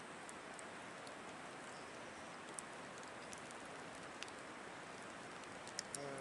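Wood fire in a Picogrill 760 fire pit just catching: a faint steady hiss with scattered small crackles and ticks.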